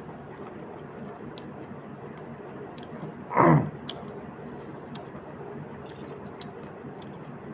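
A man chewing a mouthful of pork curry, with faint scattered wet clicks of chewing. About three and a half seconds in comes one loud, brief sound that slides down in pitch.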